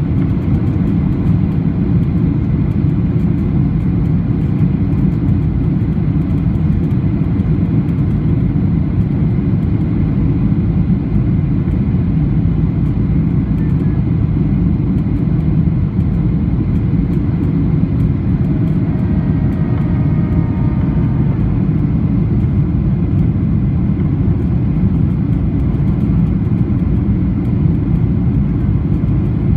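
Steady low cabin rumble inside a Boeing 737-800 in flight: its CFM56-7B engines and rushing airflow, even in level throughout.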